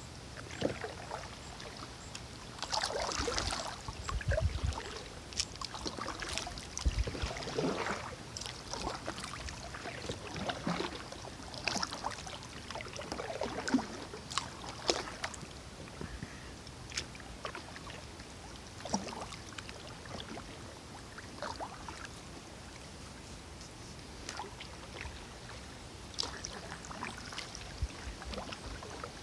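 Kayak paddle dipping and splashing in river water in irregular strokes, with a few low knocks.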